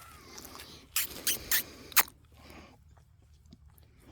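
Wet mouth clicks and smacks of a dog licking and slobbering close to the microphone, four sharp ones about one to two seconds in.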